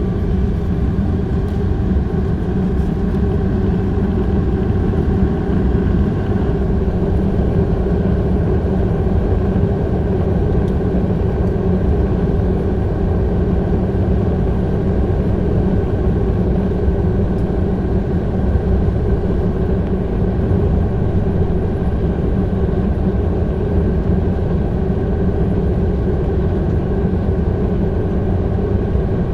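Steady cabin noise inside an Airbus A330-300 with Rolls-Royce Trent 700 engines: an even mix of engine hum and rushing air with a few faint steady tones, holding level with no rise or fall.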